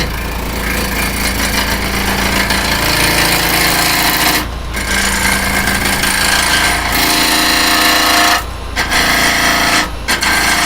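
Wood lathe spinning a wet, out-of-round cherry blank at about 1,670 RPM while a gouge roughs it down, cutting intermittently through uneven end-grain bits. The cutting noise breaks off briefly three times, leaving the lathe's steady hum.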